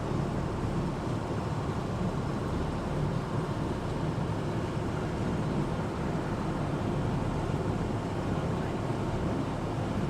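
Amphibious Duck tour vehicle's engine running steadily as it cruises on the water.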